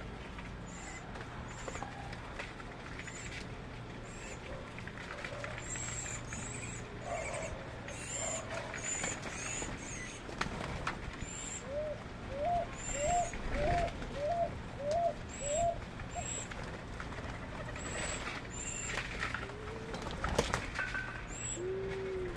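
Birds calling: short high chirps repeat throughout, and midway a run of about eight short rising hoots comes at an even pace of about two a second. A lower, longer note starts near the end.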